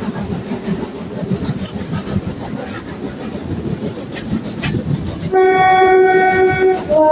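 A train running in on the rails, then its horn sounds about five seconds in: one loud steady chord for about a second and a half, then a second chord on a different note.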